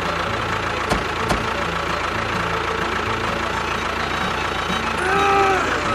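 A small motor running steadily, with two short clicks about a second in.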